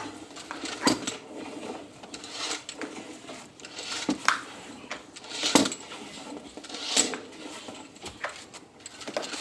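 Metal clinking and knocking, a string of separate sharp strikes, the loudest about a second in and near the middle, as bore well pipe and fittings are handled.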